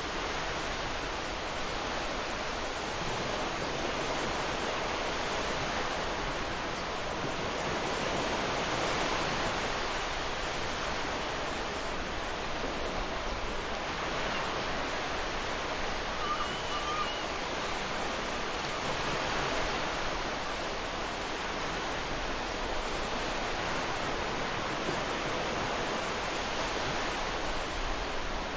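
Ocean surf washing onto a beach: a steady rush of waves that swells and eases slowly, with a brief faint chirp a little past halfway.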